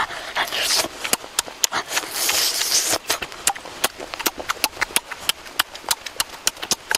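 Close-up eating sounds of a person biting into and chewing grilled pork rib: a quick, irregular run of wet smacking and chewing clicks, with a longer rasping stretch about two seconds in.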